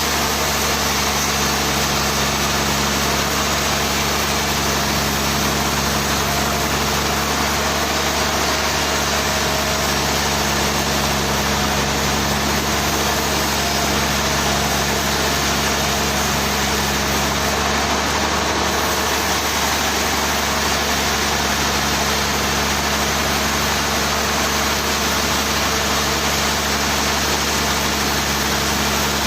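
Engine-driven sawmill machinery running steadily: a constant, unchanging engine drone.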